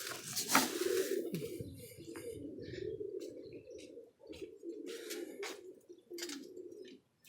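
Domestic pigeons cooing together in a steady low murmur, with scattered short sharp clicks and taps.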